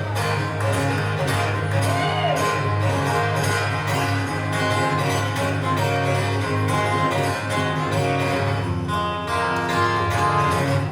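Live band music with guitar to the fore.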